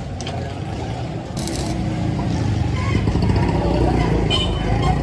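Machinery running with a steady low, engine-like hum that grows louder about two seconds in, with a brief high hiss shortly before.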